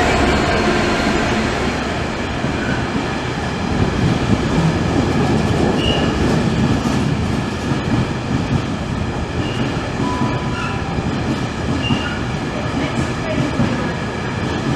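A train running past on the rails: a loud, steady rumble with a few brief high squeals from the wheels.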